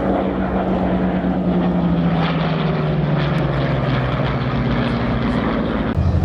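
Piston-engined propeller warbird flying past, its engine note falling steadily in pitch as it goes by. Near the end the sound jumps abruptly to a louder, lower, pulsing engine drone.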